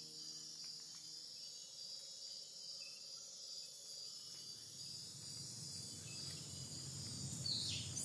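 Insects chirring steadily, a faint rainforest ambience, with a short descending bird-like chirp about seven and a half seconds in. A low rushing noise swells gradually in the second half.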